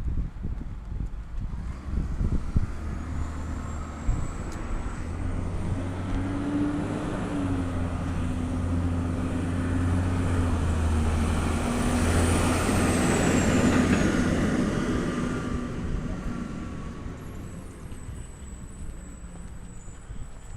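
Peterbilt 320 automated side-loader garbage truck's engine running. It steps up in pitch about six seconds in, grows to its loudest in the middle, then eases off. A faint high whine rises and falls over it.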